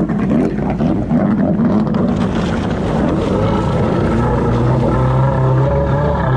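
Two-stroke jet ski engine running, rough and uneven at first, then settling into a steady note about halfway through.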